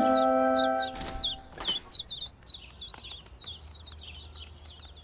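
A held musical chord ends about a second in, then small birds chirp over and over in a quick run of short, falling, high chirps.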